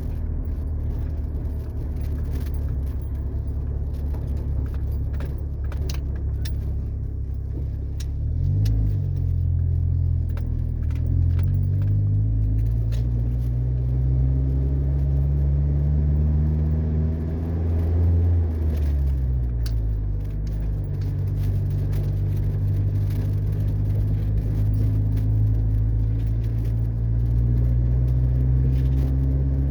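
Ford Ranger pickup's engine pulling while driving. Its pitch dips about eight seconds in, climbs steadily for several seconds, drops again near the middle as the gears change, then runs steady. Light rattles and clicks sound over it throughout.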